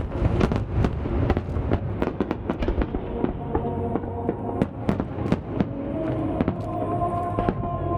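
Fireworks shells bursting in quick succession, several sharp bangs a second, over sustained music.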